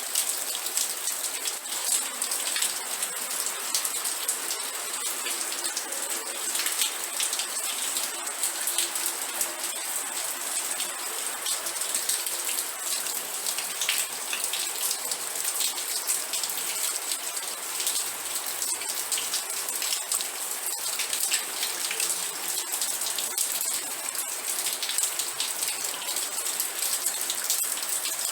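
Steady rain falling, with a dense patter of individual drops striking a hard surface over an even hiss.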